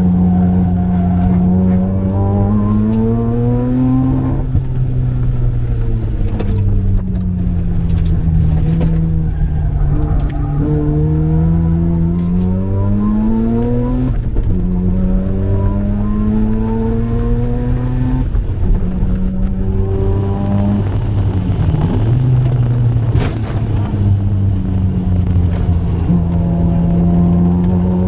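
Mazda RX-7 FD3S's 13B twin-rotor rotary engine running hard on track, its pitch climbing under acceleration and dropping away several times, about four seconds in, again around fourteen seconds and near twenty seconds.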